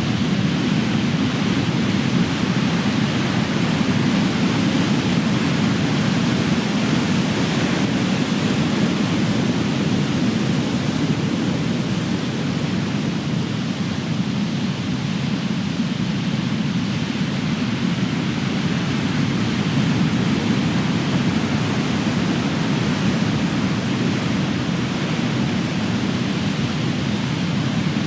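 Big ocean waves breaking and surf washing ashore, a continuous heavy rumble and hiss that swells and eases slowly.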